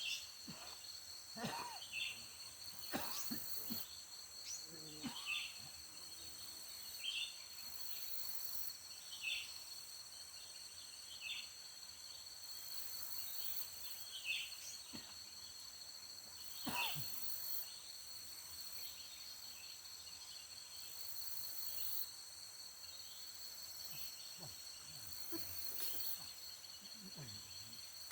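Tropical forest ambience: a steady high-pitched insect drone, with short chirps repeating about every second or so and a few quick falling whistles.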